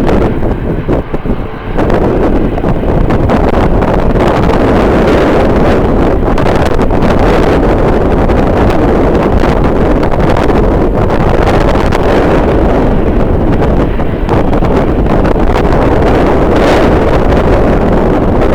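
Strong wind buffeting the microphone: a loud, steady rumbling rush with a brief lull in the first two seconds.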